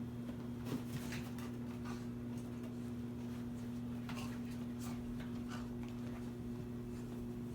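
A beagle moving about, making scattered short scratching and rustling sounds over a steady electrical hum.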